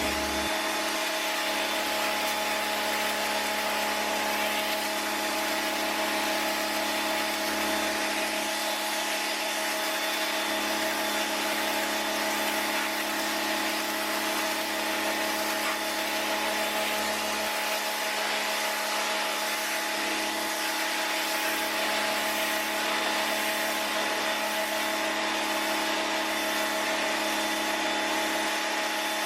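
Stanley electric pressure washer running steadily, its motor hum under the hiss of the water spray.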